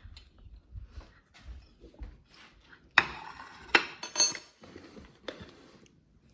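Dishes and cutlery clinking as a plate of food is handled: faint knocks at first, then several sharp clinks over a couple of seconds, the loudest about three seconds in.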